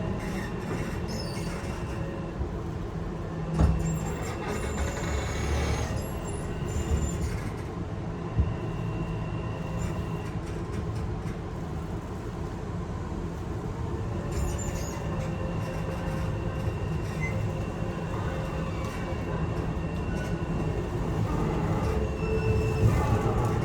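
Running noise heard from inside a Yokohama Minatomirai Railway Y000 series electric train: a steady rumble of wheels on rail with a faint high whine. There are sharp knocks about 4 and 8 seconds in.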